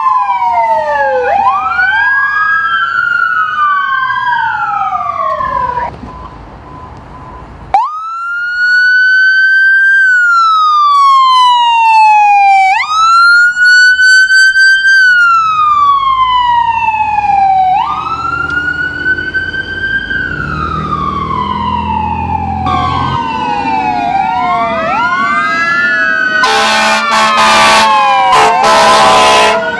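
Emergency vehicle sirens wailing in slow rising and falling sweeps, with two or more sounding together at times. Near the end, a burst of short repeated horn blasts cuts through the sirens.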